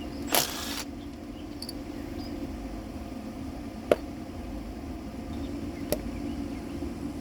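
2012 Nissan Maxima's V6 engine idling steadily, with a short hiss about half a second in and two sharp clicks later on.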